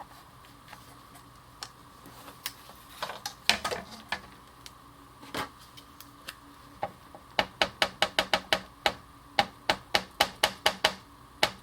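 Light hand tapping with craft tools on a desk: a few scattered clicks and knocks, then from about seven seconds in a quick, even run of sharp taps, about three a second.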